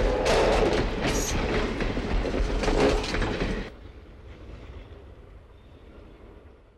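Railway passenger coaches rolling past close by, their wheels clicking over the rail joints, with a brief high squeal about a second in. About halfway through, the sound drops to a much quieter, distant train running, which fades away.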